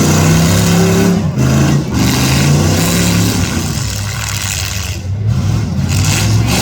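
Demolition derby cars' V8 engines revving hard, loud and steady, their pitch rising and falling as the throttle is worked.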